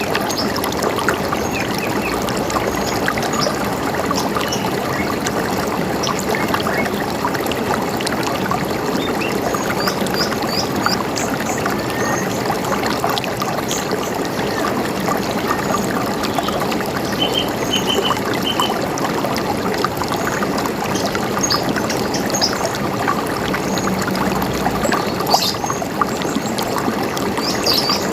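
River water running steadily, with scattered short bird chirps above it, including a few quick runs of repeated notes.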